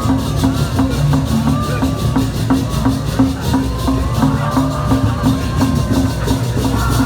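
Balinese processional gamelan playing: a steady pulse of low gong-like tones about three times a second under a dense, continuous clash of cymbals, with voices over it.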